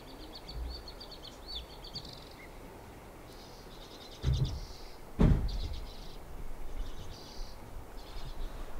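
A small songbird singing rapid high trills, one long run of quick notes at the start and then several shorter phrases. Near the middle come two dull low thumps about a second apart.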